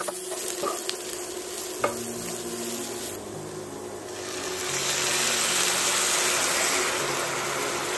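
Chopped vegetables and hazelnuts sizzling in a hot nonstick frying pan, stirred with a wooden spatula that knocks lightly against the pan a few times early on. About four seconds in, red wine poured into the hot pan to deglaze it sets off a much louder, hissing sizzle.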